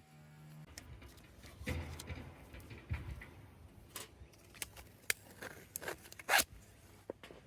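Camping gear being handled and rummaged through: irregular scraping and rasping, with a short, loud zipper-like rasp about six seconds in.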